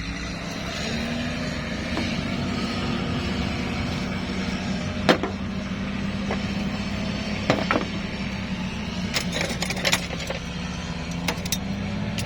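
An engine idling steadily, its hum stepping up slightly about a second in, with several short sharp metallic clicks and knocks over it.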